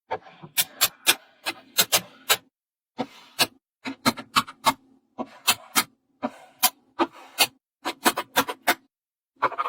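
Small magnetic balls clicking sharply as they snap onto one another. The clicks come in quick runs of several, with short silent gaps between the runs.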